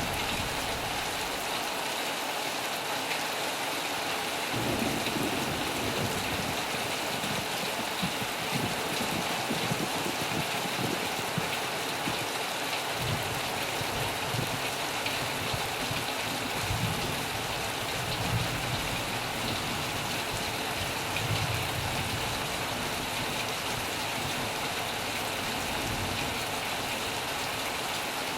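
Heavy rain falling steadily, a dense even hiss, with low rumbles coming and going beneath it.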